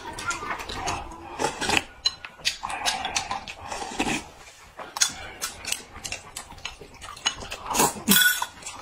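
People eating noisily, with wet chewing and slurping sounds and irregular clinks of utensils against bowls and dishes.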